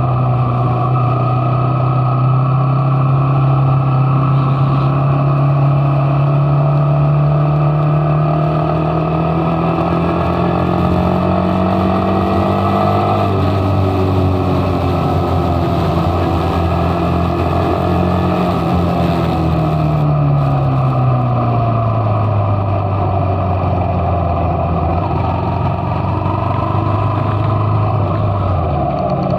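Motorcycle engine running under way, heard from the bike. Its pitch climbs slowly, holds, then sinks through the second half, dipping sharply and picking up again near the end.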